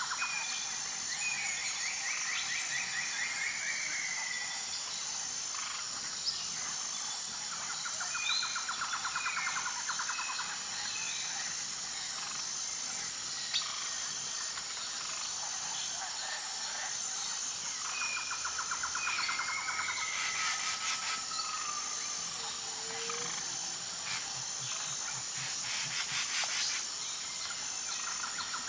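Tropical forest ambience: a steady, pulsing high insect buzz runs throughout. Over it a pulsed, trilling call repeats about every nine seconds, with scattered short chirps and whistles.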